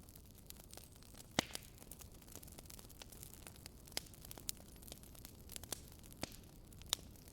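Wood fire burning in a fireplace: irregular sharp crackles and pops over a steady low hiss, the loudest pops about a second and a half, four seconds and seven seconds in.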